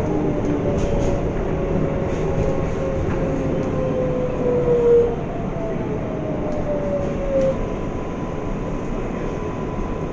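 Inside a New York City subway car on the 7 line, the train runs on the rails with a steady rumble. Over it the electric motors' whine falls slowly in pitch, as when the train slows, with a brief louder jolt about halfway through.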